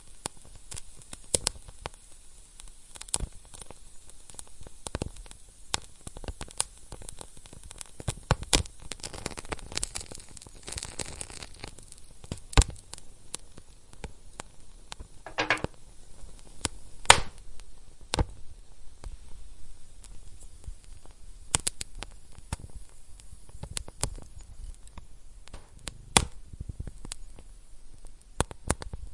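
Wood fire crackling, with irregular sharp pops and snaps over a soft background hiss, and a brief hiss about halfway through.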